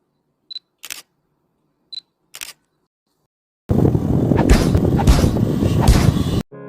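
Camera shutter sound effects: four short, sharp clicks spread over the first two and a half seconds. Then, a little past halfway, a loud rushing noise with a few crackles sets in for nearly three seconds and cuts off sharply.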